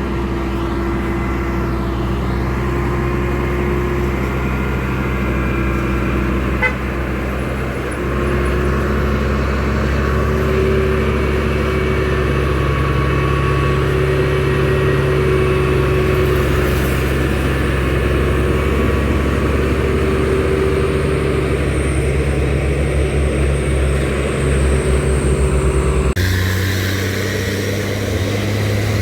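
Heavy truck engines running steadily with a deep rumble. The sound changes abruptly shortly before the end.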